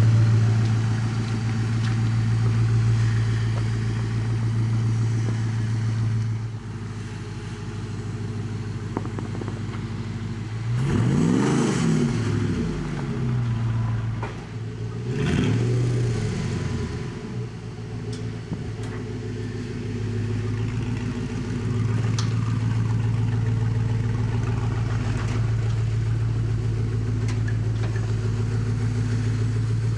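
HEMI V8 engine of a Willys Jeep pickup running with a steady low hum, revving up and back down twice, about a third and again halfway through.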